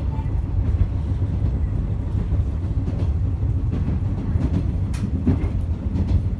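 Interior running noise of an old JNR express-type electric multiple unit under way: a steady low rumble of wheels on rail, with a few sharp clicks in the second half.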